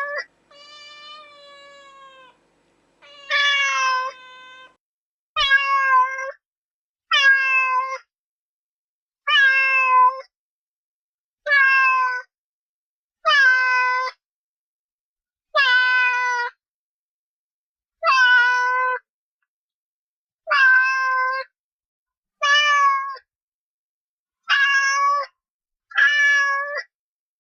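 Domestic cat meowing over and over, about a dozen drawn-out meows roughly every two seconds, the first two fainter and the rest louder.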